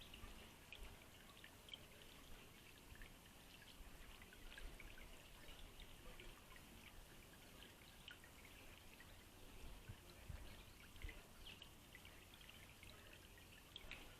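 Faint, busy chirping and twittering of small garden birds at a feeder: many short high calls overlapping all through, with a low rumble underneath.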